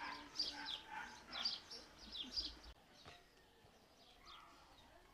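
Small birds chirping in a run of short, high calls, a couple each second, that stop about three seconds in; after that only faint outdoor background remains.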